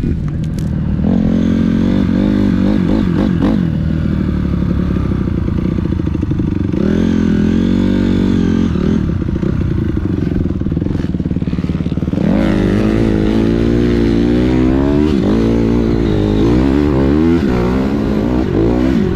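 Motocross dirt bike engine being ridden hard, its pitch climbing and dropping with throttle and gear changes. The rises and drops come quicker and steeper from about two-thirds of the way through.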